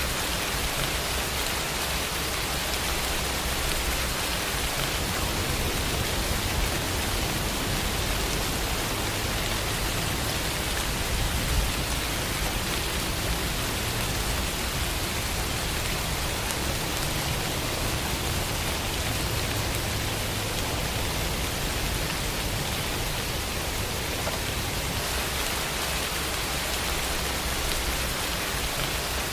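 Steady rain falling: an even hiss with a low rumble underneath, unchanging throughout.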